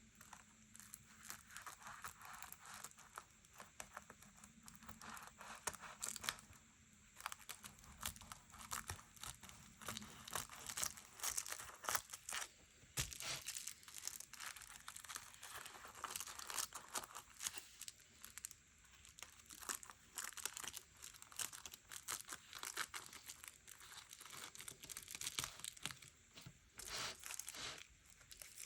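Paper being handled: rustling, crinkling and tearing in short, irregular bursts, with scattered light clicks and taps.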